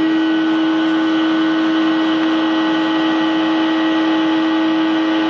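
A steady, unbroken hum at one pitch with overtones, holding the same loudness throughout.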